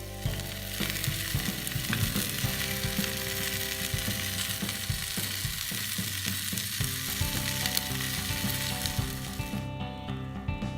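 Food sizzling in a hot skillet: a dense, steady frying hiss that stops near the end.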